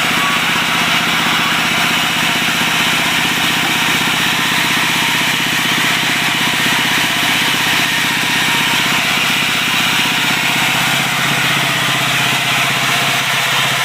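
Stationary diesel engine of a wood-sawing machine running steadily at an even pace, with a dense hiss over its rapid firing.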